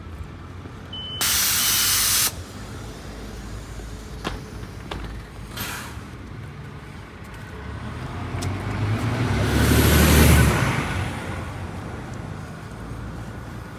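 City street sounds: about a second in, a short beep and then a loud, even hiss of air lasting about a second; later a road vehicle drives past, rising and fading with its loudest point near the end.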